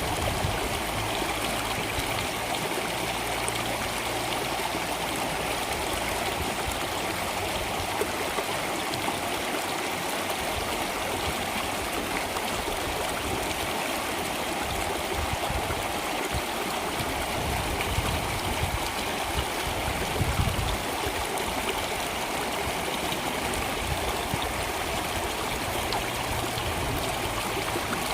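Water flowing steadily in a stream, a continuous even noise with a couple of slightly louder splashes about two-thirds of the way through.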